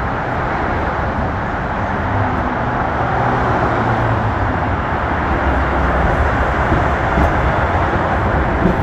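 A train running by, a steady rumble that slowly grows louder.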